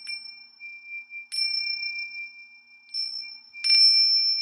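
Chimes ringing, with two high tones held throughout. Fresh strikes come about a second in and again, louder, a little before the end.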